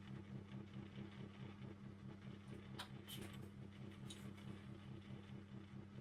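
Faint steady mechanical hum that pulses evenly, about five beats a second, with a few light clicks about halfway through.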